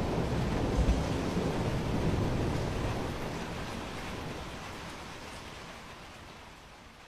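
Heavy typhoon rain with a low rumble of thunder about a second in, the whole sound fading away over the last few seconds.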